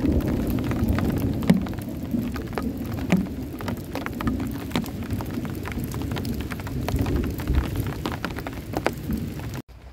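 Heavy rain on a tent, a dense wash with many separate drops tapping the fabric, over a low rumble of thunder that fades in the first seconds. The sound cuts off abruptly near the end.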